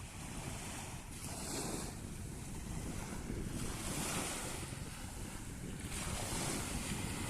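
Sea waves washing in, the hiss swelling and fading in surges a couple of seconds apart, over a steady low rumble of wind on the microphone.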